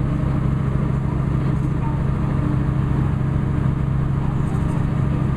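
Boat engine running steadily, a constant low hum with noise over it, heard on board.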